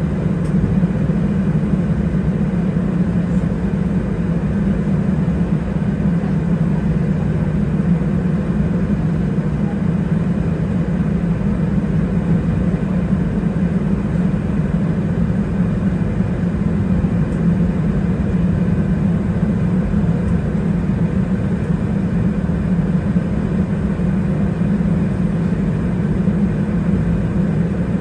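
Cabin noise of an Airbus A320-212 taxiing after landing: a steady rumble from its CFM56-5A engines at idle, with a strong low hum.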